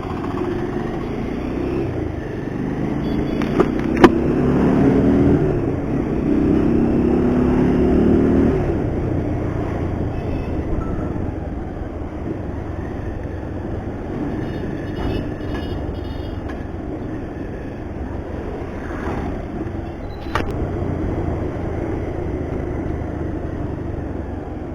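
Car engine and road noise, heard from inside the moving car. The engine note rises as the car accelerates in the first several seconds, then settles to a steady cruise. A sharp click about four seconds in is the loudest sound.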